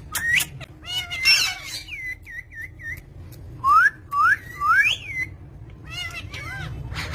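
Green ringneck parakeet whistling and chirping in short notes, with a run of three rising whistles midway.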